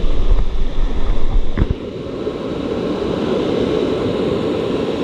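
Steady rushing of flowing water, with a heavier low rumble and a couple of knocks in the first second or two.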